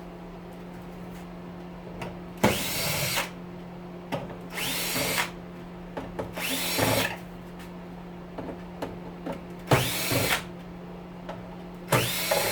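Cordless drill or power screwdriver backing out screws from an oven's sheet-metal fan housing: five short runs about two seconds apart, each rising in pitch as the motor spins up.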